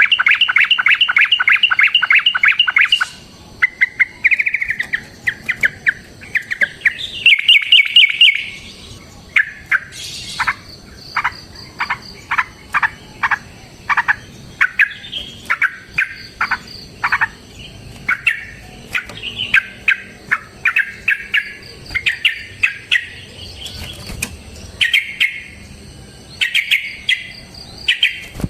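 Yellow-vented bulbul (trucukan) calling: a long, loud, rapid chattering trill for about the first three seconds, then runs of short sharp notes and brief trills repeating through the rest.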